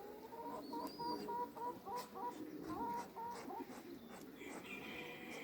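Domestic chickens clucking in a run of short, repeated calls, with a higher bird call near the end.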